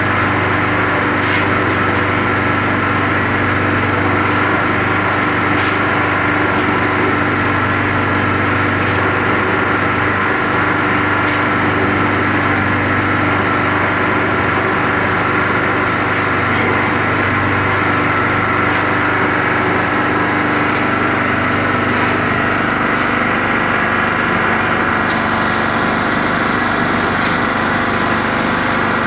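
Portable petrol generator engine running steadily at a constant pitch, powering a Skif BSM 200 electric concrete mixer whose drum is turning as dry sand is loaded in.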